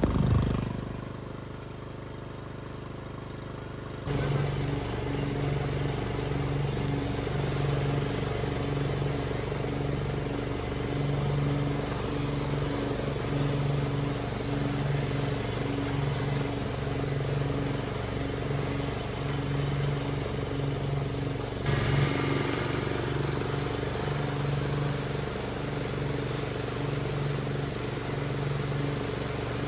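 Riding lawnmower engine running steadily after an engine swap, with no exhaust banging. The drone comes in about four seconds in and swells and fades about once a second, with a brief louder rattle a little past the two-thirds mark.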